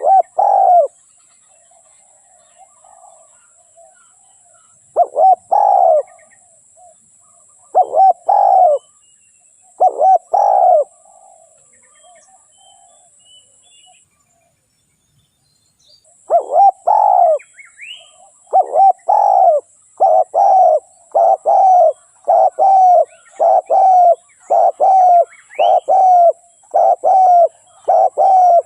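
Spotted dove cooing. A few coos come with pauses between them, then a short gap of complete silence. After that comes a quick run of coos, about one a second.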